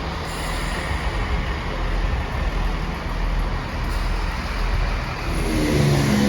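Chiltern Railways diesel multiple-unit train running through the station, a steady low rumble with rushing noise. A pitched hum comes in near the end.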